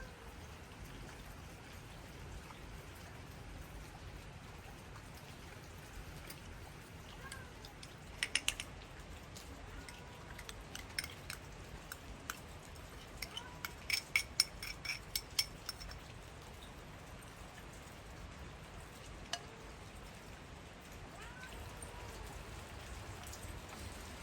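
Steady rain falling, with a few short sharp clinks about a third of the way in and a quicker run of them just past the middle.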